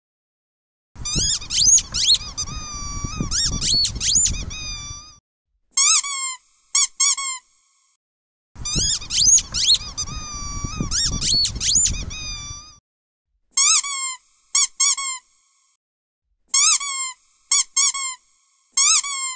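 High-pitched squeaks in a repeating pattern: a rapid run of squeaks over a low rubbing noise for about four seconds, then three short squeaks that dip and rise in pitch. The whole sequence then repeats, with more short squeaks in quick groups near the end.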